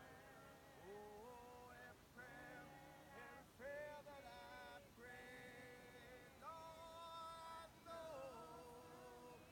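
Congregation singing a hymn a cappella, men's and women's voices together, faint, in long held notes that slide from one pitch to the next.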